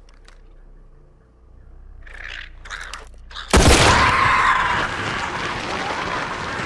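Film soundtrack: a few faint rustles and clicks, then a sudden loud crash about three and a half seconds in, followed by a loud continuing din.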